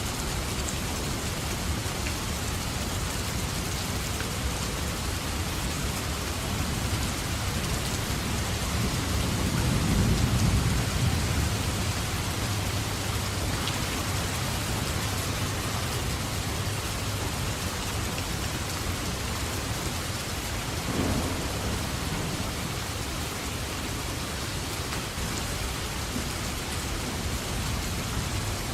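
Steady heavy rain falling, with thunder rumbling in the distance. One long roll of thunder swells up about a third of the way through, and a shorter rumble comes about two-thirds of the way in.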